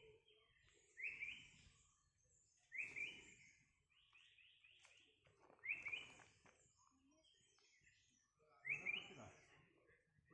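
Forest birds calling: one bird repeats a short sweeping call every couple of seconds, once as a quick run of four, with fainter high-pitched chirps from other birds.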